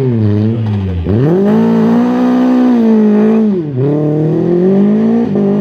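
Renault Clio rally car's engine driven hard on a stage, revving high, its pitch dropping sharply about a second in and again about three and a half seconds in, then climbing back up each time.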